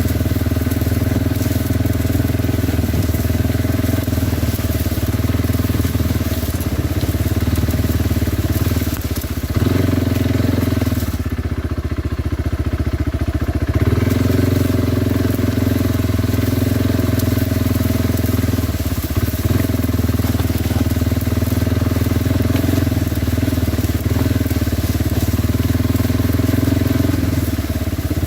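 Kawasaki Brute Force 300 ATV's single-cylinder four-stroke engine running steadily under way, with a crunching rumble mixed in. The engine note shifts briefly and the hiss drops away from about ten to fourteen seconds in.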